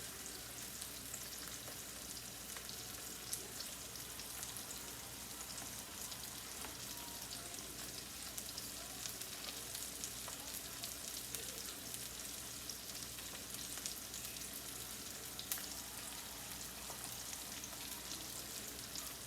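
Tilapia fillets frying in a pan on the stove: a steady sizzle with scattered small pops and crackles.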